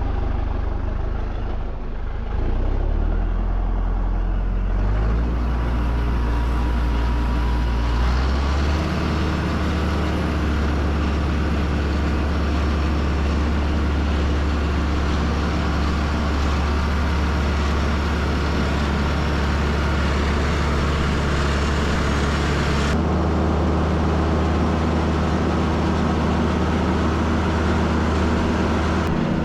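A heavy vehicle engine running, speeding up in steps over the first eight seconds or so and then holding a steady drone.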